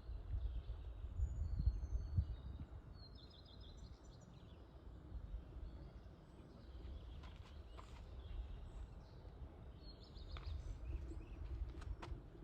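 Small birds chirping in short high calls, in bursts about a second in and again near the end, over a steady low rumble, with a few sharp ticks.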